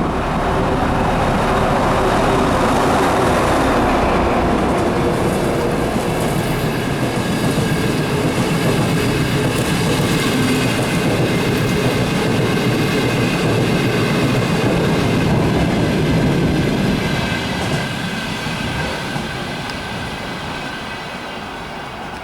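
ChME3 diesel shunting locomotive hauling a Moscow-2026 metro car past at close range, a loud steady run of engine and wheel noise that fades away over the last few seconds as the train moves off.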